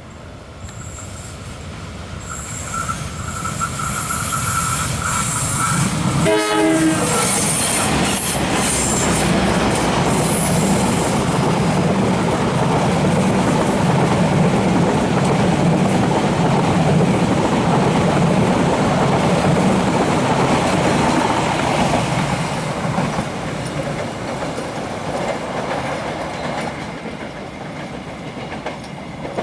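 Kutojaya Utara passenger train coming through: the locomotive horn sounds for a few seconds early on. About eight seconds in, the locomotive and its coaches pass close by with a steady rumble and wheel clatter on the rails. The noise eases off over the last several seconds as the train moves away.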